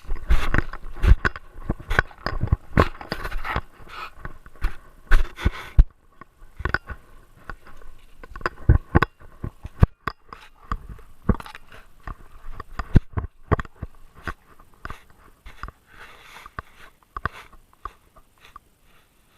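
Great Dane chewing and gnawing close to its body-mounted camera: irregular crunches and clicks, dense for the first several seconds, then sparser, fading out near the end.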